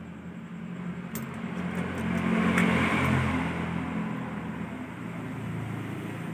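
A motor vehicle engine passing by, swelling to its loudest about two to three seconds in and then fading, with a few faint clicks.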